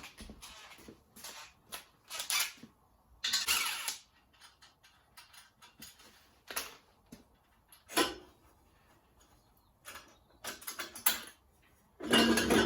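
Hand tools working on the turbo exhaust downpipe's fixings: scattered metallic clicks, knocks and scrapes with pauses between, and a longer scraping rattle a few seconds in.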